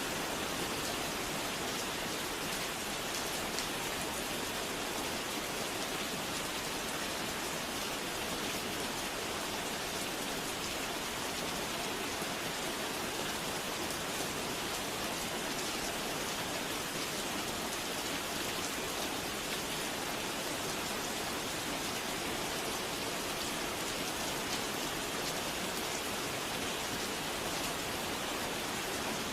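Steady rain falling, an even hiss of many small drops at a constant level.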